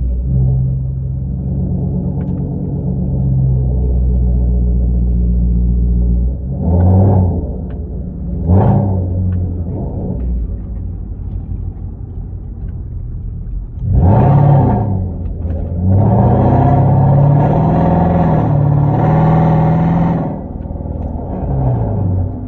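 Hyundai Genesis 5.0 sedan's V8 through a straight-piped 2.5-inch exhaust with Flowmaster Super 10 mufflers and no catalytic converters. It runs low and steady at first, then gives a few short revs. About two-thirds of the way in it pulls hard under acceleration, holding high revs for several seconds before dropping back.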